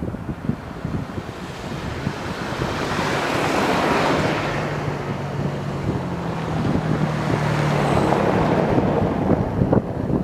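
Off-road vehicle driving on a dirt road with wind rushing over the microphone. The rushing swells and fades, with a steady low engine hum underneath.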